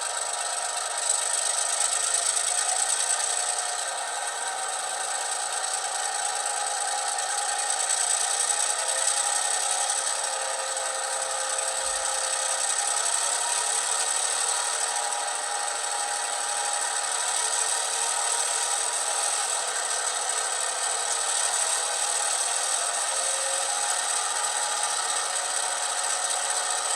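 Recorded diesel switcher engine sound from an ESU LokSound v5 decoder, played through two small sugar-cube speakers in an HO scale Atlas MP15DC, running at high throttle as it is notched up toward notch 8. It sounds thin and raspy, with little bass and a few wavering engine tones.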